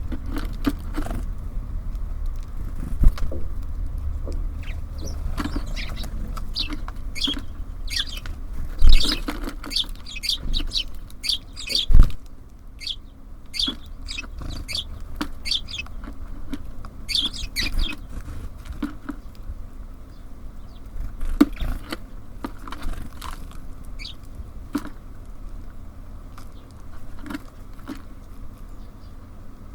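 Small songbirds at a feeder chirping in short, quick calls, busiest in the middle stretch, over a steady low rumble of city traffic. A few sharp knocks stand out, the loudest about a third of the way in.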